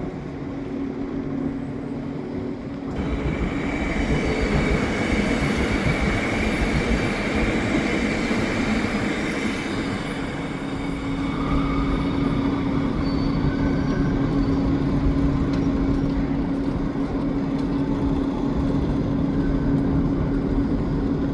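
Train noise at a station platform: a steady hum under a broad rushing noise that swells about three seconds in and holds.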